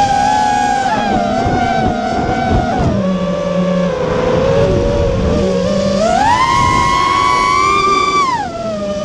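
FPV quadcopter motors whining, the pitch rising and falling with the throttle: high and steady at first, dropping about three seconds in, climbing higher around six seconds and falling again near the end.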